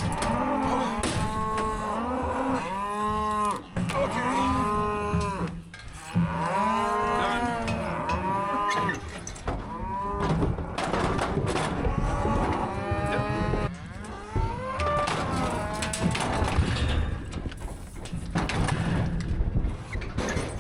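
Several head of cattle mooing and bawling, their long calls overlapping one after another, with a steady low hum underneath.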